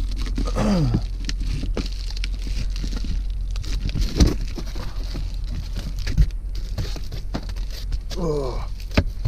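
Window cover panels being pulled off a car's windows from inside: rustling and crinkling with scattered clicks and knocks, the sharpest about four seconds in.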